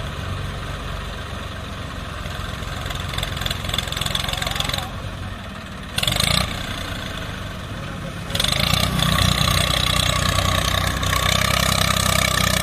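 Sonalika DI 740 tractor's diesel engine running under load, pulling a loaded trolley, with a short louder burst about six seconds in. About eight seconds in the engine picks up and runs markedly louder.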